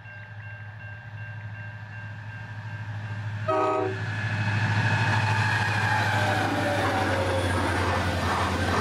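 A level-crossing warning bell rings steadily as QR National diesel locomotives approach. About three and a half seconds in, the lead locomotive sounds one short horn blast. The engines and wheels then grow loud as the locomotives run through the crossing with their container freight train.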